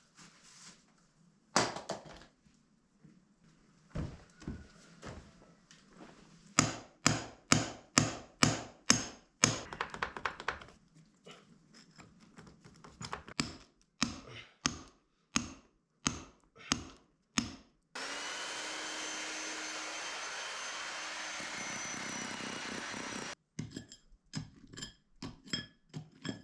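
A series of sharp knocks, about one to two a second, in several runs, then a power tool runs steadily for about five seconds, starting and stopping abruptly, followed by more knocks.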